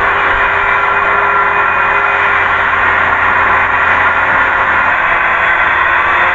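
Power saw running steadily.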